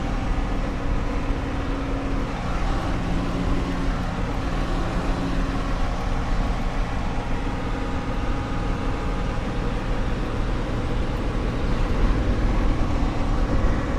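Steady engine and road noise of a car driving at cruising speed, heard from inside the cabin.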